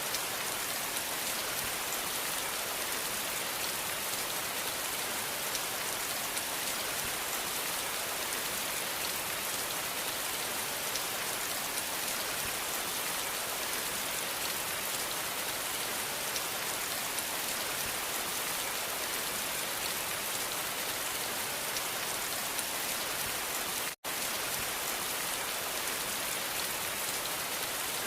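Steady, dense rain hiss, even throughout, with the sound cutting out for an instant near the end.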